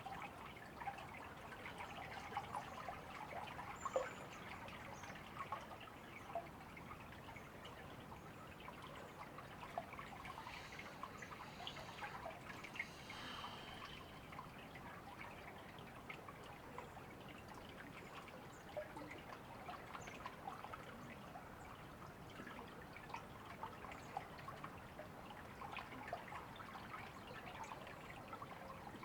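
Faint river water trickling and babbling steadily, with many small splashes and drips.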